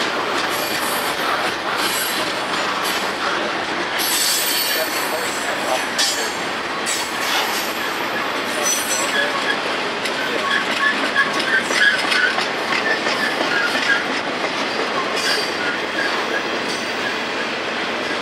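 Freight cars rolling past at trackside: a steady rumble of steel wheels on rail, with irregular clicks and knocks and short high-pitched wheel squeaks through the middle.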